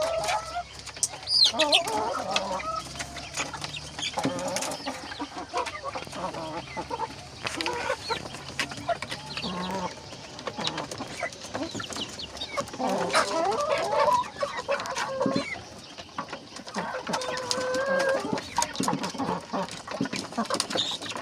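Free-range local chickens clucking and calling, with many short overlapping calls and scattered clicks and scratches.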